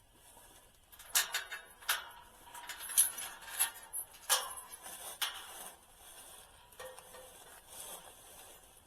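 A run of sharp metallic clinks and clanks, a few a second for about four seconds, then two or three scattered knocks near the end.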